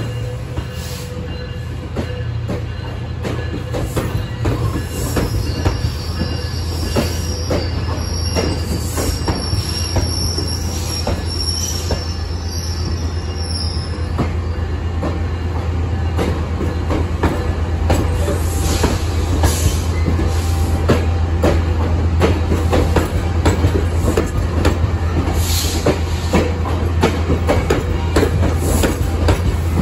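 Metrolink bilevel commuter coaches rolling slowly past, wheels clicking over the rail joints over a steady low rumble. A high wheel squeal comes in about five seconds in and fades out around fourteen seconds. The train grows louder toward the end.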